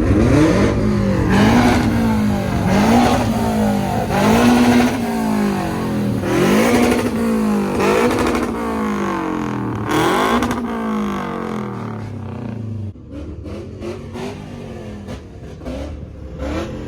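A car engine revved hard over and over, its pitch climbing and dropping about every second and a quarter, then easing off to a quieter, lighter revving about twelve seconds in.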